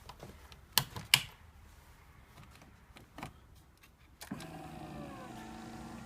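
Ski-Doo Skandic snowmobile being started after summer storage: two sharp clicks about a second in, then about four seconds in its engine starts turning over with a steady mechanical whir of several tones.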